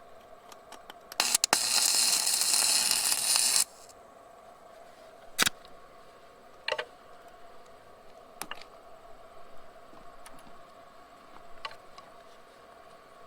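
Electric welding arc crackling for about two and a half seconds while a washer is welded over a twisted-off bolt, followed by several single sharp clicks spaced a second or more apart.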